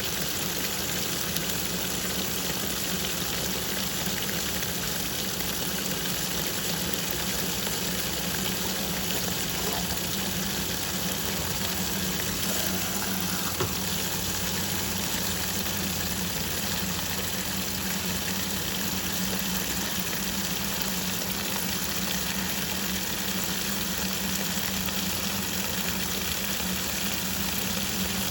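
Twin-tub washing machine running: steady churning and swishing of water with a steady low hum underneath.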